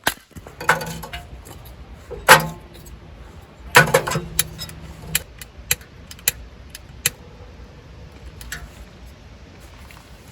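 Camping gear being handled and set down: a run of sharp metallic clinks and knocks, about a dozen spaced out over the first eight seconds, one of them leaving a short low ring, then quieter.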